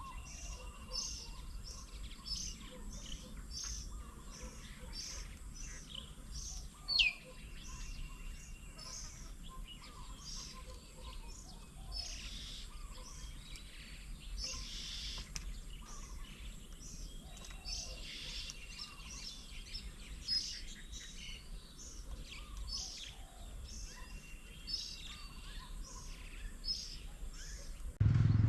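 Songbirds calling around a garden bird table: a dense run of short, high chirps repeating several times a second, with a few drawn-out level whistles and one loud sharp call about seven seconds in.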